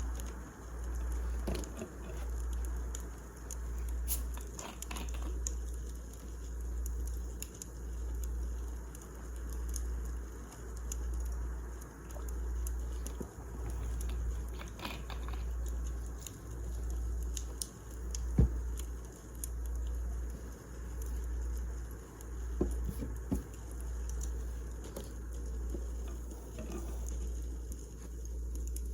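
Wood fire crackling, with scattered small pops and snaps and one sharper pop about two-thirds through. Underneath is a low rumble that swells and fades about every second and a half.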